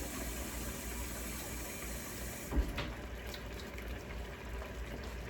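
Kitchen tap running water, shut off about halfway through, then a single knock and a few light clicks.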